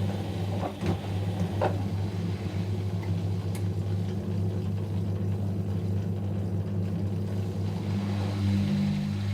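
Whirlpool washing machine running on a delicate 30° cycle, its drum motor giving a steady low hum. There are a few soft knocks in the first two seconds, and the motor tone shifts near the end.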